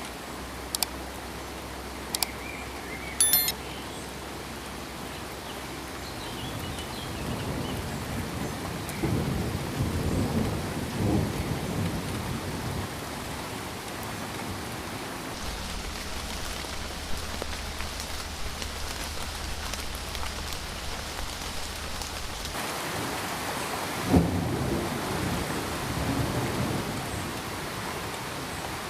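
Steady rain with thunder rumbling low twice, about nine seconds in and again near the end. A few sharp clicks in the first few seconds.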